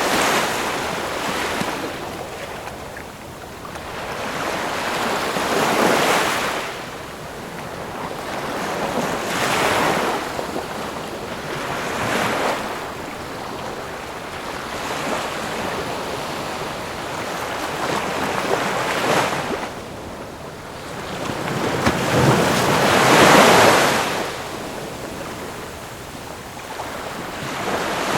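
Ocean waves breaking and washing on the shore, a swell of surf every three to four seconds with a larger wave about 23 seconds in.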